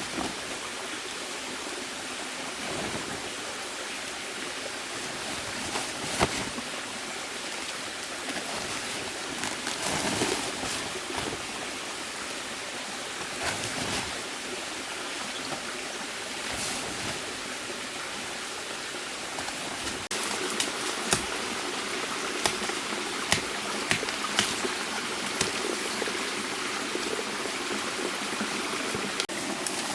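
Steady rushing water sound, with scattered sharp clicks and snaps, more of them in the second half.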